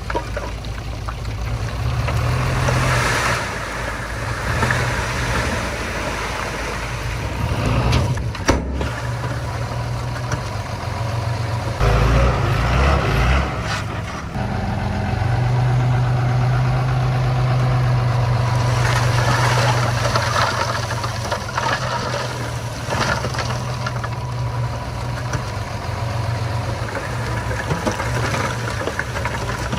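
Diesel engines of small earthmoving machines working, a steady low hum that swells and eases with load. There is a brief cut-out about eight and a half seconds in.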